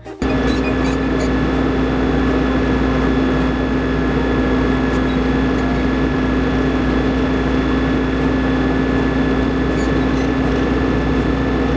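New Holland tractor engine running at a steady, constant speed: an even drone with a held tone, starting suddenly just after the outset.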